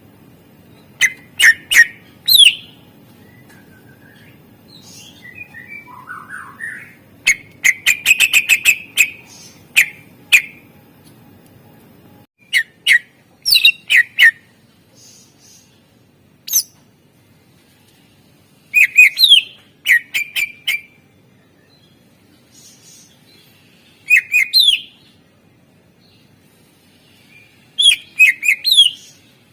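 A green leafbird (cucak ijo) sings in short bursts of sharp falling whistles and chatter, with pauses of a few seconds between phrases. One phrase is a rapid run of about ten clipped notes. The song is laced with mimicked calls of other birds (isian). A low background hum stops about halfway through.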